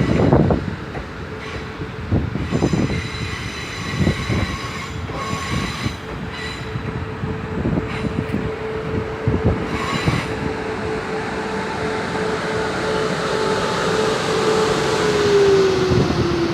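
Class 450 Desiro electric multiple unit running into the station, its wheels clicking over rail joints under a steady whine. Near the end the whine falls in pitch as the train slows.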